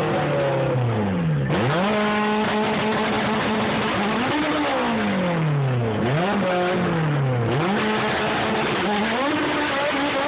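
Modified Honda Civic hatchback drag car's engine revving up and down again and again while staged at the start line, its pitch climbing, holding briefly at high revs, then dropping, several times over.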